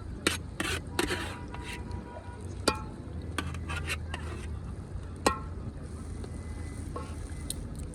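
Scattered sharp metallic clinks, several ringing briefly, over a steady low rumble.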